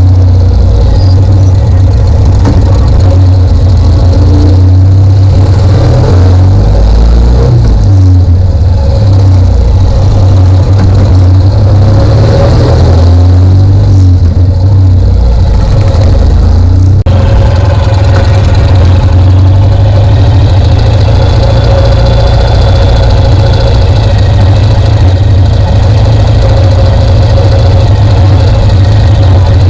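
Motorcycle engine running loud and steady with a heavy low rumble, with an abrupt change in the sound a little over halfway through.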